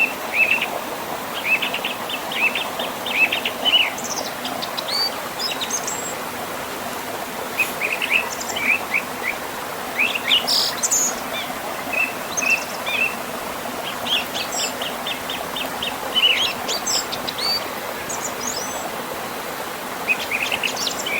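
Small birds chirping in quick clusters of short high notes, again and again, over the steady rush of a river flowing past a small waterfall.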